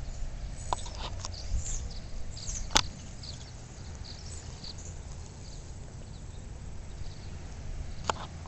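Outdoor background noise with a low steady rumble and faint, scattered high bird chirps. There are a few sharp clicks, the loudest nearly three seconds in and another near the end.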